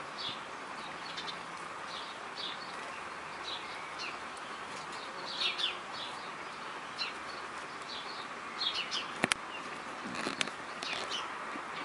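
Small birds chirping over and over, short high chirps against a steady outdoor hiss, with two sharp clicks about nine and ten and a half seconds in.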